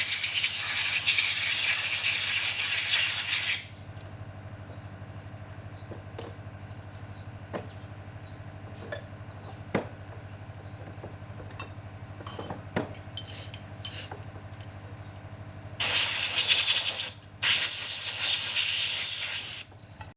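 Cleaning spray hissing in three loud bursts while engine parts are cleaned during assembly. In the quieter stretch between bursts, light metallic clicks and knocks of parts being handled.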